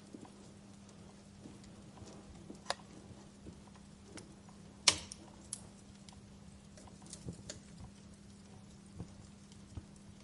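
Fire crackling: scattered small pops and snaps, with one sharp, loud pop about five seconds in, over a faint steady hum.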